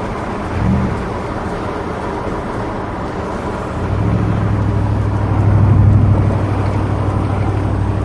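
Pickup truck engine running with a steady low drone. About four seconds in it steps up as the truck is given some gas, swelling a little more around six seconds before holding steady.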